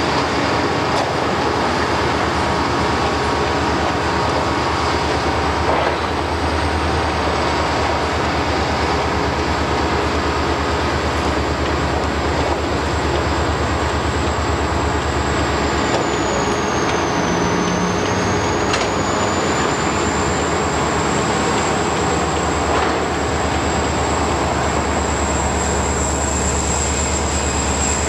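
A train rolling past: a steady, unbroken rumble of steel wheels on rail.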